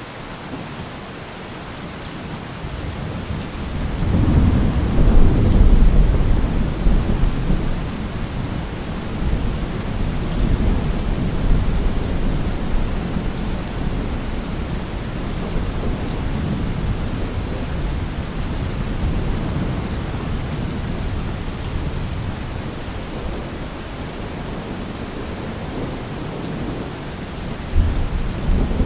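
Steady heavy rain with rolling thunder. A deep thunder rumble swells about four seconds in and slowly dies away, and another rumble begins near the end.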